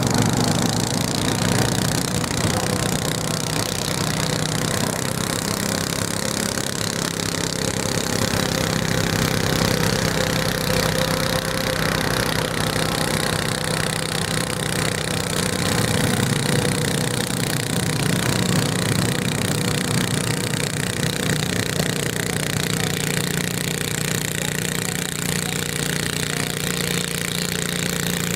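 Garden tractor engine running steadily, its pitch shifting slightly now and then.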